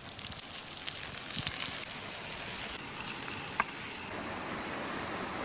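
Fish frying in hot oil: a steady sizzle with scattered crackles, and one brief sharp tick a little past three and a half seconds.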